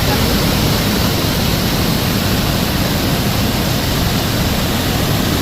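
Iguazú Falls' massive cascades pouring down: a loud, steady, unbroken rush of falling water.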